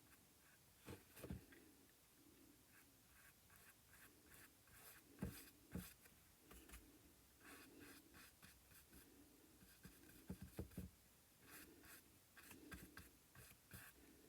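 Faint, repeated scratchy strokes of a paintbrush working acrylic paint, with a few soft knocks in between.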